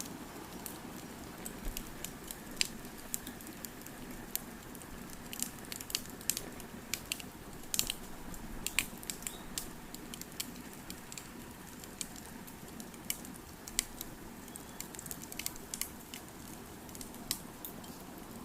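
Crackling fire: irregular sharp snaps and pops over a steady low rustle.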